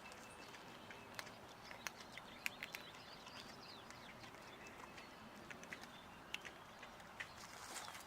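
Quiet outdoor background with a few scattered light clicks and faint bird chirps.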